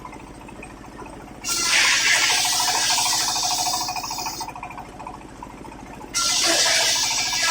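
Circular sawmill blade running with a steady machine drone, then cutting through waru wood twice: a loud, hissing cut of about three seconds starting about a second and a half in, and a second cut starting near the end.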